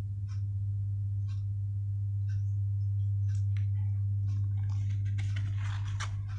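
Sheets of paper being handled and folded: scattered light rustles and taps, then a denser crinkling rustle over the last second and a half or so. A steady low hum runs underneath and is the loudest sound.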